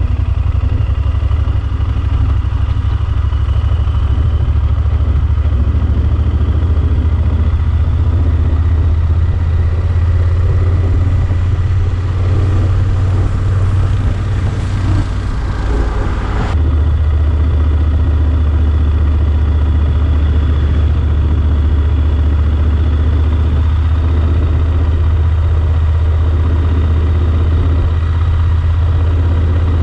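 Yamaha Super Ténéré XT1200 motorcycle's parallel-twin engine running steadily with a deep, even hum. A rushing noise builds over a few seconds a little past the middle, then the sound shifts abruptly.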